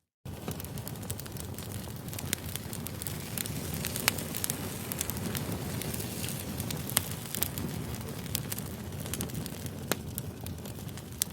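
Campfire crackling: a steady rush of burning with sharp pops scattered throughout. It cuts in abruptly just after a brief silence.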